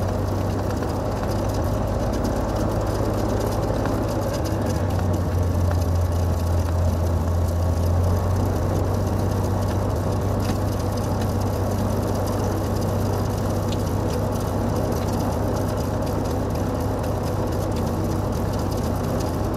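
Cessna 182's piston engine and propeller droning steadily in flight, with a strong low hum.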